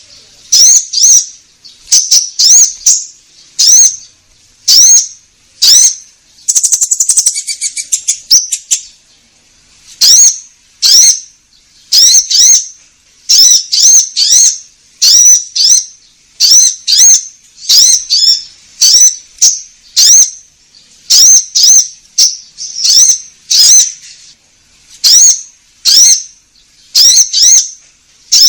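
Konin bird calling over and over: short, high, hooked chirps in quick clusters of two to four, about once a second, with a longer buzzy rattling trill about seven seconds in.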